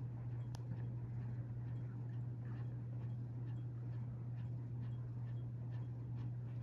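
Hampton Bay Carousel 52-inch ceiling fan (CEI-made) running, its motor giving a steady hum, with faint light ticks about twice a second.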